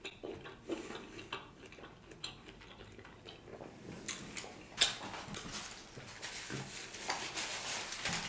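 Close-miked mukbang chewing of bone-in ribeye steak: wet mouth smacks and lip clicks, with one sharper click about five seconds in.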